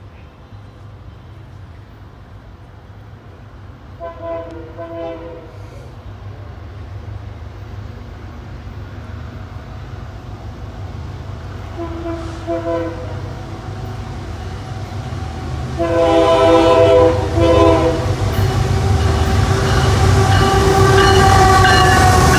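BNSF diesel freight locomotive approaching and passing, its engine rumble growing steadily louder. It sounds its horn in two short blasts about four seconds in, a single short blast around twelve seconds, then a longer blast and a short one around sixteen to eighteen seconds. Near the end the locomotive rolls by close with loud engine and wheel noise.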